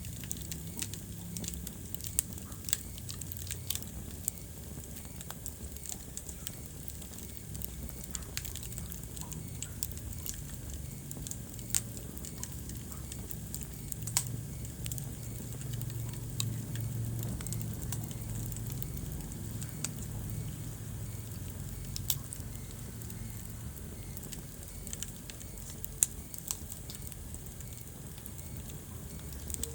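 Wood fire crackling in a fireplace: frequent sharp pops and snaps, a few of them louder, over a steady low rumble of the flames.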